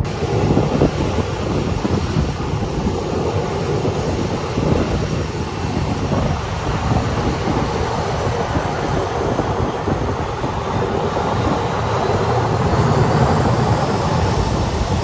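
Aircraft engines running loud and steady, a dense roar with a faint high whine over it, mixed with wind buffeting the microphone.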